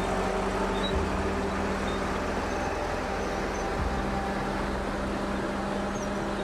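Caterpillar crawler bulldozer's diesel engine running steadily, a continuous low drone.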